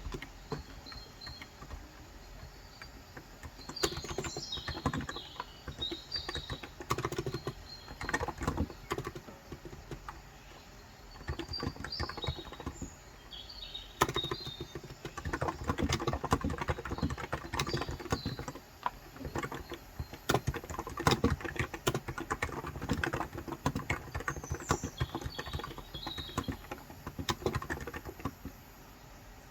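Typing on a Cox Endeavor tenkeyless keyboard with 35 g contactless (electrostatic capacitive) switches: quick runs of keystrokes with a few short pauses. Birds chirp now and then in the background.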